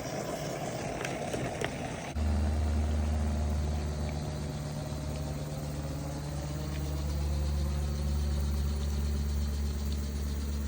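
Low, steady engine drone that starts abruptly about two seconds in, with a slowly shifting pitch in its upper tones: an airplane flying over.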